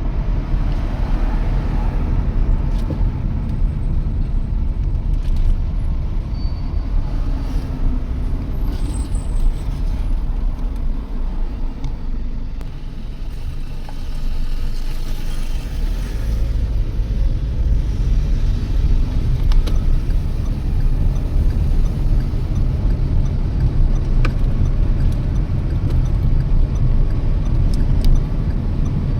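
Steady road and engine noise of a Toyota Yaris being driven, a continuous low rumble that eases a little about halfway through and then rises again.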